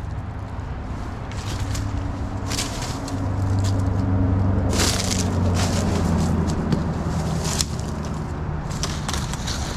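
Dry vegetation such as palm fronds and brush crunching and crackling in uneven bursts as someone pushes through on foot. Under it runs a low engine-like drone that swells a few seconds in and slides lower in pitch.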